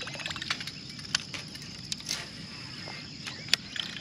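Outdoor ambience: a steady high-pitched hum over a low rumble, with a few faint chirps and half a dozen short sharp clicks scattered through it.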